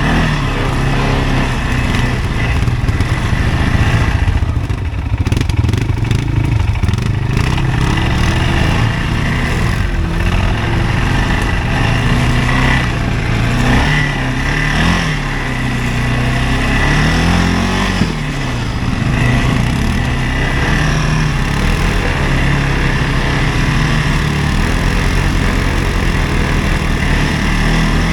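CFMoto ATV engine running steadily under riding load, its pitch rising and falling with the throttle.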